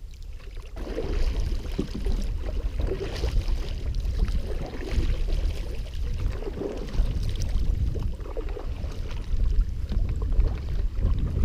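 Wind rumbling on the microphone of a canoe on a river, with the faint irregular splash and wash of water around the paddles and hull.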